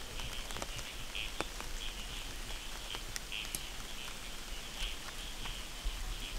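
Light rain with scattered drops ticking on an umbrella, under a steady chorus of high, quickly repeated calls from small animals in the wet forest, a few pulses a second.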